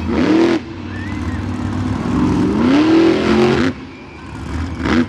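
Monster truck engine revving in bursts: a short blip that cuts off sharply at the start, a longer rev that climbs and falls back from about two seconds in, and another quick blip near the end, over a steady low rumble.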